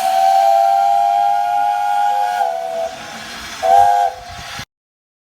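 Steam whistle blowing over a hiss of steam: one long blast that dips slightly in pitch as it ends, then a short second blast, cut off abruptly.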